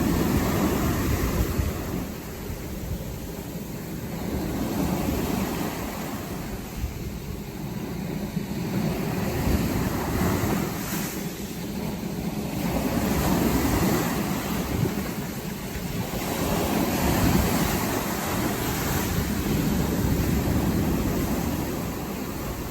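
Sea waves breaking and washing up a beach, the surf swelling and falling back every three to five seconds, with some wind rumble on the microphone.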